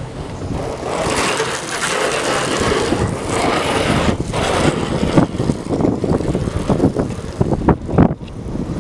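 Motor vehicle on the move with heavy wind noise on the microphone, a steady rushing with short gusts and knocks in the second half.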